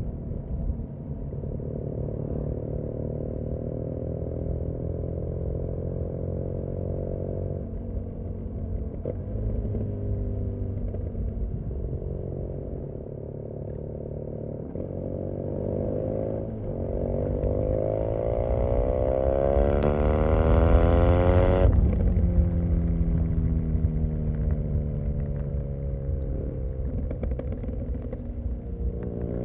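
BMW R nineT's boxer twin running through a Jekill & Hyde aftermarket exhaust. It pulls with the revs climbing steadily for several seconds, cuts off abruptly about two-thirds of the way in, then the note falls slowly as the bike slows.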